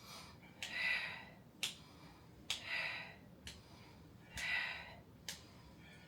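A woman breathing hard in rhythm through a Pilates ab exercise, with a hissy exhale or inhale about every two seconds and a few small clicks between them.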